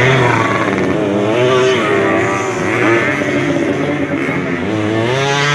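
Motocross bikes' engines revving, the pitch rising and falling over and over.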